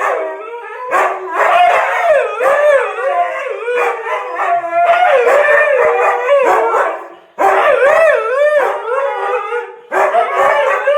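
Dog howling in long calls whose pitch wavers up and down, with short pauses about two thirds of the way through and again near the end.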